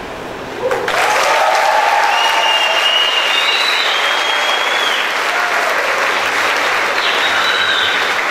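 Audience applause breaks out about a second in and carries on steadily, with high cheering voices over it.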